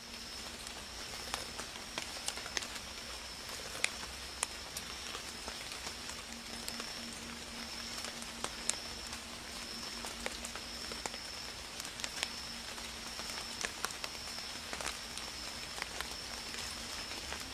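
Forest ambience: a steady high-pitched insect drone with scattered sharp crackles and clicks over a soft even hiss.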